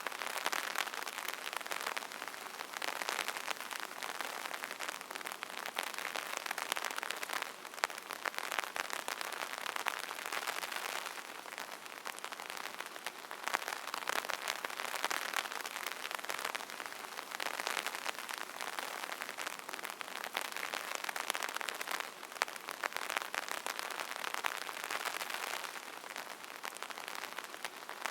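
Rain pattering on an umbrella canopy: a dense, steady spray of drop ticks that swells and eases gently every few seconds.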